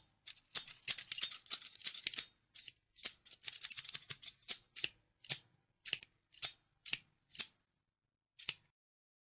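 Scissors snipping: quick runs of rapid snips through the first half, then single snips about every half second, the last one a second after a short pause near the end.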